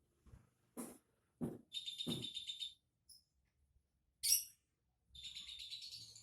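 A small songbird calling in rapid, buzzy high trills: one about two seconds in, a short sharp call a little past the middle, and a longer trill near the end. Several soft low thumps come before the first trill.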